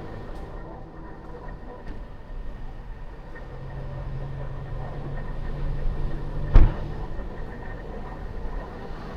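Car driving on city streets: steady road and engine noise, with a low hum rising for a few seconds in the middle and a single sharp thump about six and a half seconds in.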